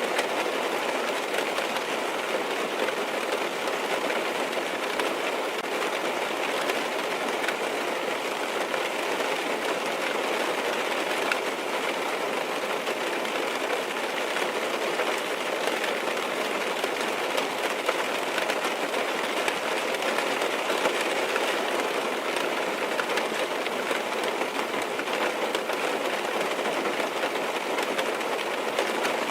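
Steady rain drumming on a car's roof and windows, heard from inside the car: a dense, even patter with scattered individual drop taps.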